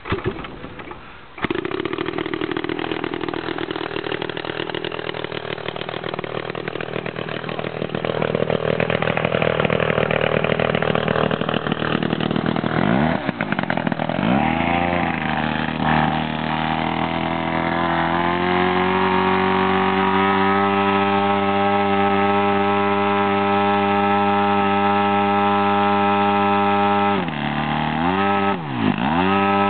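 Homemade giant RC airplane's engine starting about a second and a half in and running, its pitch dropping and rising sharply twice around the middle as the throttle is worked. It then runs steadily at high speed, with two brief dips in pitch near the end.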